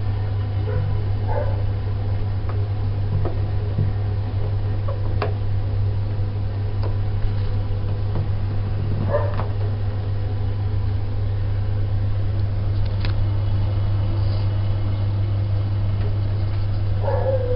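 Vaillant boiler running with a steady low drone and a few faint clicks. This is the strange noise that the owner cannot trace to any one part, and it goes away when the air inlet is adjusted.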